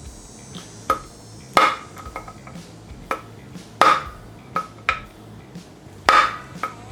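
Repeated metallic taps on a 12-point socket, driving a water pump shaft seal onto its shaft. There are about eight sharp strikes at uneven intervals, each with a short metallic ring.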